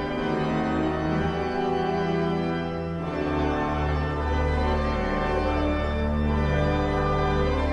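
Organ playing sustained full chords, moving to a new chord about three seconds in.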